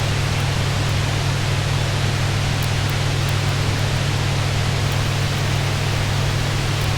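Steady rain drumming on a cabin roof, an even hiss, over a strong steady low rumble, with a few faint crackles from a fireplace.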